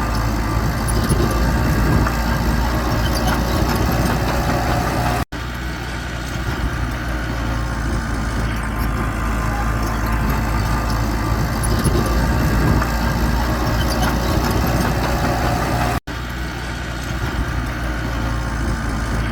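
Heavy earthmoving machinery's engine running steadily, with the sound cutting out for an instant twice.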